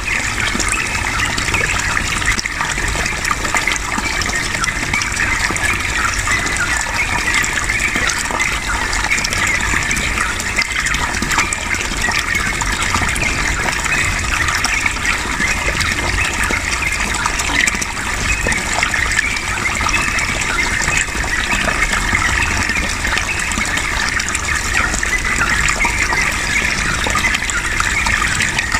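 Running water flowing steadily, an even rushing gush.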